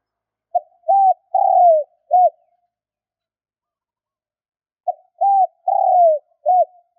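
Spotted dove cooing: two identical phrases a few seconds apart. Each phrase is four notes: a short note, an arched coo, a longer coo that falls in pitch, and a short final note.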